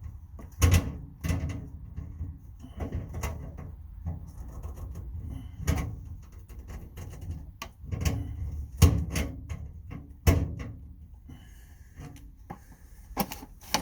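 Heavy, irregularly spaced bangs and knocks on a metal job-site gang box as it is beaten back into shape, about seven strikes with a dull thud and short ring, the loudest around nine and ten seconds in.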